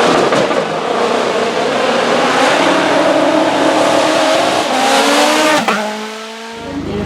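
Racing car engine under hard acceleration at full throttle, loud and dense with the revs climbing. About five and a half seconds in there is a sharp crack, after which the engine note drops and the sound falls away.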